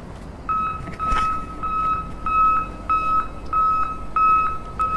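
Electronic beeper sounding a steady repeated beep at one pitch, nearly two beeps a second, starting about half a second in, like a reversing or alarm beep.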